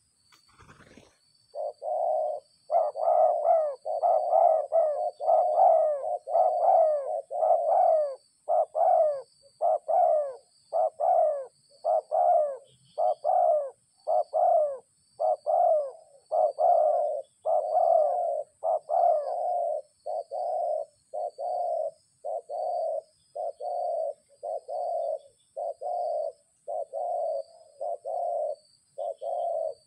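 Dove cooing in a long, rapid run of short coos, about one to two a second, some with falling upper notes in the first half. A brief knock right at the start.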